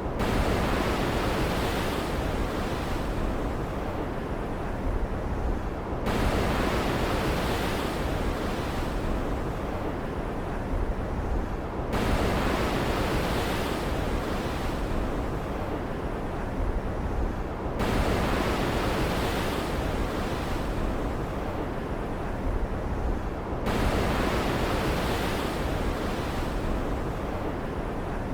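Stormy ocean surf: a steady rushing hiss of waves, with a new wave surging in about every six seconds and easing off before the next.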